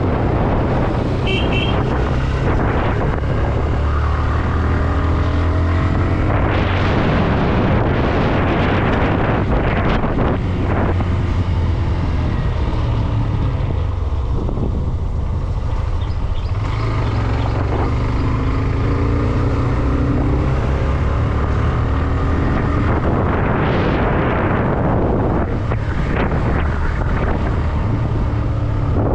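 Single-cylinder engine of a Hero Xtreme 125 motorcycle running steadily while riding, with wind rushing over the microphone. The rushing noise swells twice, about a quarter of the way in and again near the end.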